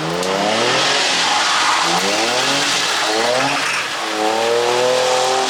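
Drift car's engine revving hard in repeated rising sweeps, then held steady at high revs for the last second and a half, over a hiss of tyres sliding on wet pavement.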